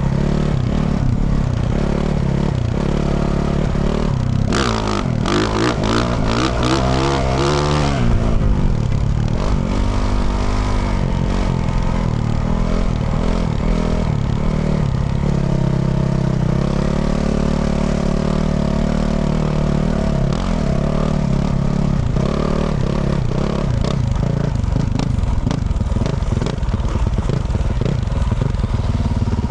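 2024 Yamaha YZ450F's single-cylinder four-stroke engine through a Yoshimura RS-12 exhaust, riding under throttle with the revs rising and falling. Between about four and eight seconds in, quick rev swings come with a run of sharp clatters.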